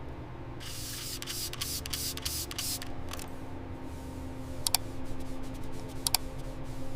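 A rapid run of small clicks and ticks with a hissing rush for the first few seconds, then a couple of single clicks, over a steady low hum.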